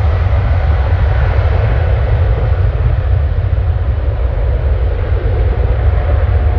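Jet airliner taking off, its engines a loud steady rush, mixed with heavy wind rumble on the microphone.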